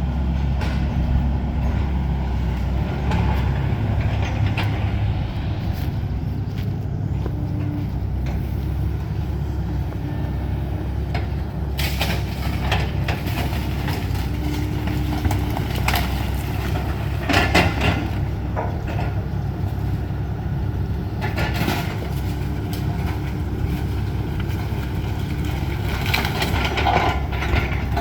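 Demolition excavator's diesel engine running steadily with a whine that comes and goes, broken by several crashes of the house's debris breaking and falling, the loudest about 17 seconds in.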